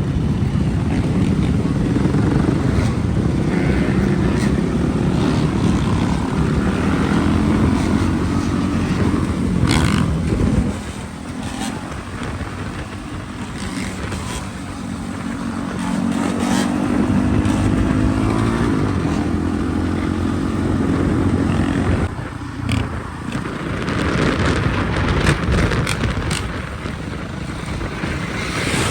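Dirt bike engine running under way, its pitch climbing and falling as it revs up and eases off, quieter for a stretch in the middle.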